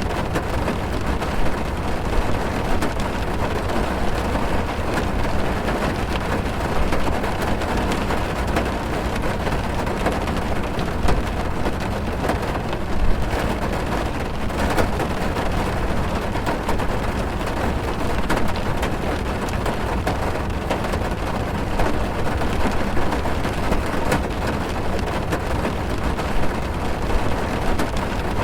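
Heavy rain drumming on a car's roof and windows, heard from inside the car: a steady dense patter with a low rumble and scattered sharper drop ticks.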